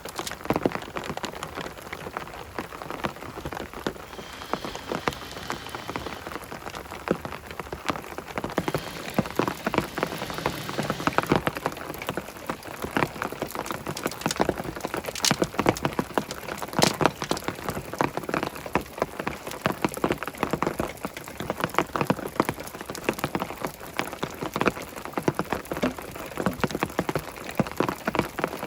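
Rain falling, with many separate drops ticking irregularly onto a hard surface.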